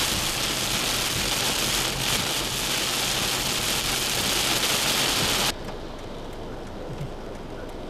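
Torrential rain pouring down, a loud steady hiss. About five and a half seconds in it cuts off abruptly to a much quieter background with scattered faint ticks.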